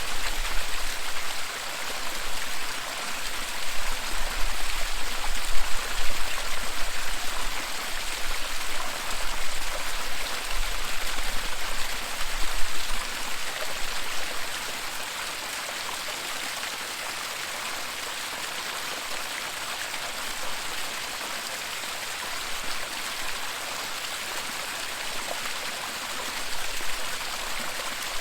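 Waterfall rushing in a steady, dense hiss of falling water. A low, uneven rumble runs under it for roughly the first half and fades out about halfway through, after which the rush stays even.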